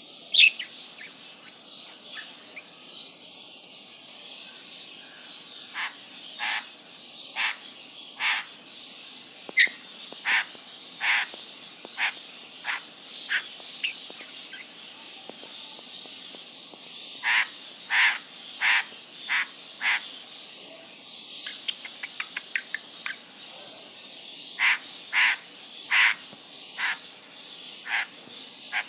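A bird giving many short, sharp calls, singly and in quick runs, with a few louder calls in pairs and threes. A steady high hiss runs underneath.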